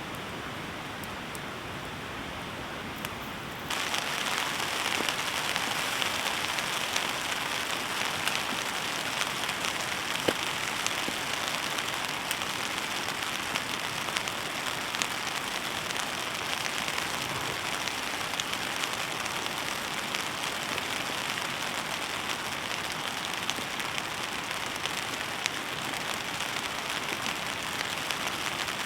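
Steady heavy rain falling on a tent or tarp's fabric, an even hiss dotted with sharp ticks of single drops. About four seconds in it abruptly becomes louder and brighter.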